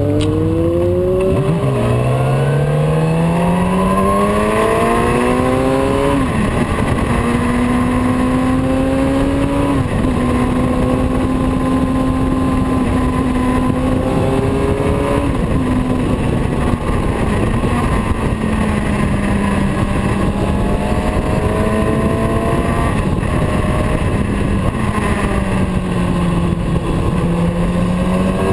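Motorcycle engine pulling through the gears: its pitch climbs and drops sharply at two gear changes in the first ten seconds, then it runs at a steady cruise with small dips and sinks slowly near the end, over a loud steady rush of noise.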